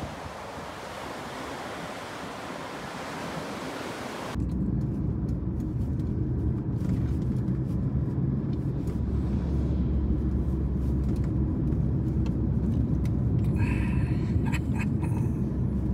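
A steady seaside hiss of wind and surf for about four seconds, then a sudden cut to a car driving: a steady engine and road rumble with a few light clicks near the end.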